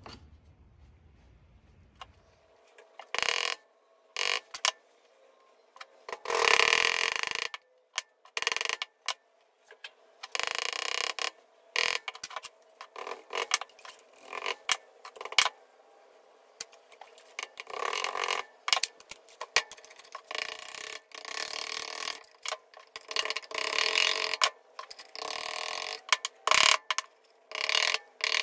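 Body hammer tapping a bent pressed-steel toy truck part against a steel anvil to straighten it, in bursts of quick metallic taps with short pauses between them.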